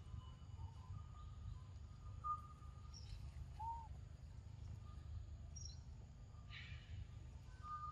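Forest ambience: scattered bird calls, thin high whistles and one short arched call about halfway through, over a steady low rumble, with a brief rustling burst near the end.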